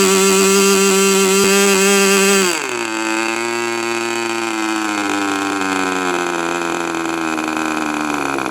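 K&B .40 R/C two-stroke glow model-aircraft engine, spinning its propeller, running at high speed. About two and a half seconds in, it is throttled back: the pitch drops quickly to an idle that then sags slowly. The owner calls the idle quite high.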